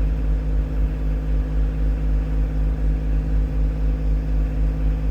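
Tractor engine running steadily at a constant speed, holding the lifted sawmill.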